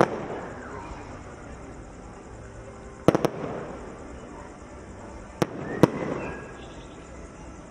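Fireworks bursting in sharp bangs that echo and fade: one right at the start, a quick pair about three seconds in, and two more near the six-second mark.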